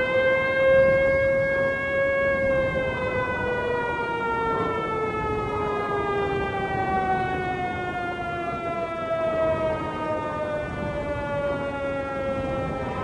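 A single long sustained tone with many overtones that rises slightly over the first two seconds, then slowly drifts down in pitch.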